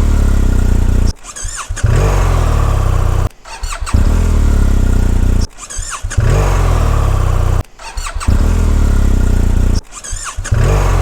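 BMW R 1250 GS and R 1300 GS boxer-twin engines cold-starting over and over: each time a brief rising starter whine, then the engine catches and runs loudly before cutting off abruptly. About five starts follow one another roughly two seconds apart.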